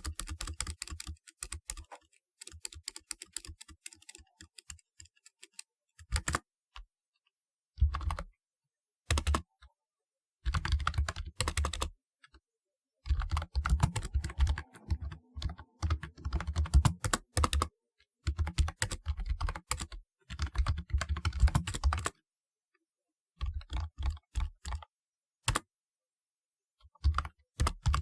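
Typing on a typewriter-style keyboard: runs of rapid key clicks, some a fraction of a second and some several seconds long, broken by short pauses.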